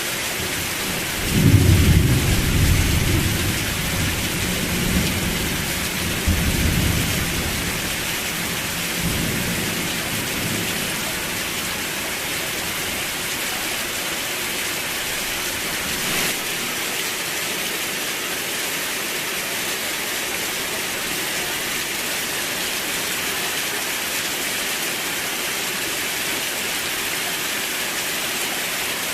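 Steady heavy rain falling, with a rumble of thunder that starts sharply about a second and a half in and rolls away over the next several seconds.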